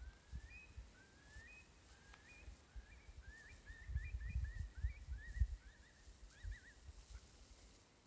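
A bird calling: a run of thin, short rising whistles, turning into quicker wavering notes about five to seven seconds in. Low rumbling bumps underneath are loudest about four to five and a half seconds in.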